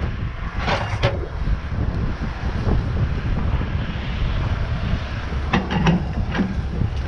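Low, steady rumble of a running engine, with short rattles and clanks about a second in and again around six seconds.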